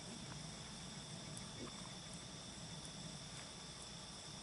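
Steady, high-pitched insect chorus: an even, continuous trilling with no breaks.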